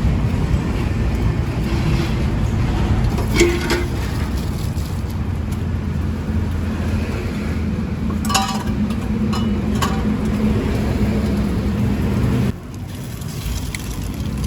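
Street traffic, mostly motorbikes, running past in a steady rumble, with a few short clinks mixed in. The traffic noise drops suddenly about two seconds before the end.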